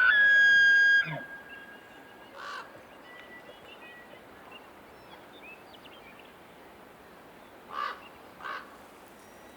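Bull elk bugling: a high, steady whistle that breaks off about a second in with a short low grunt. Later a bird caws a few times in short, harsh calls.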